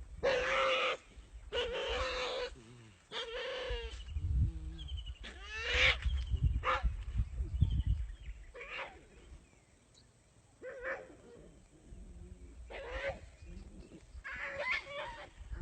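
A dog crying out in distress while being constricted by a python: a series of short yelping wails, three close together at the start, then sparser cries through the rest. Low rumbling noise sits under the middle stretch.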